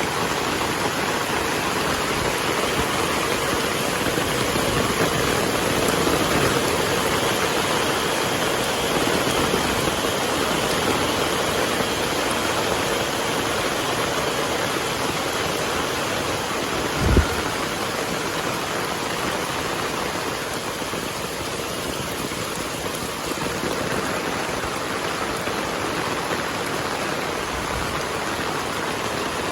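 Heavy rain falling steadily, a dense even hiss. A single brief low thump sounds a little past halfway through.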